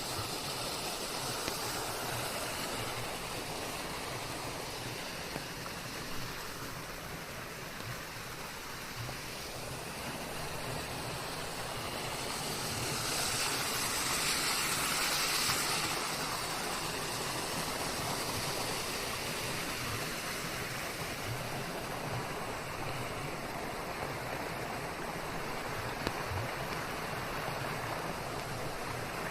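Steady rain falling on leaves, an even hiss that swells a little louder for a few seconds about halfway through.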